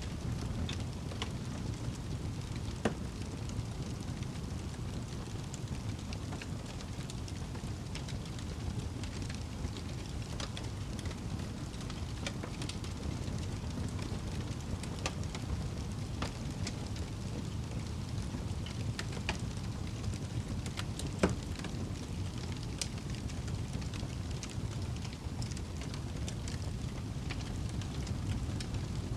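Wood fire crackling in a fireplace: a steady low rumble of burning with scattered sharp pops and snaps, two of them louder, about three seconds in and past the twenty-second mark.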